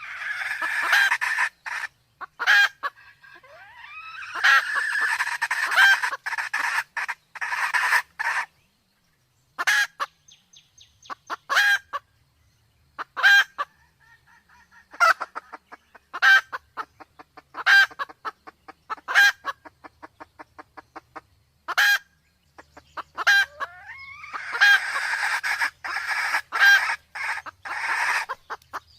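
Red junglefowl calling, a hen in breeding condition among them: single sharp clucks about every second and a half, with two long stretches of rapid, dense calling, one at the start and one near the end, each opening with a rising note.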